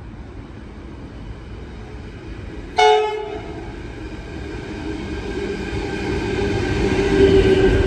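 A train sounds a short horn blast about three seconds in. Then the train's rumble grows steadily louder as it approaches.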